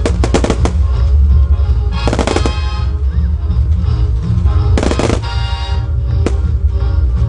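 Fireworks going off in rapid volleys of bangs: a cluster near the start, another about two seconds in, another around five seconds, and a single report about a second later. Loud music with a heavy bass plays throughout underneath.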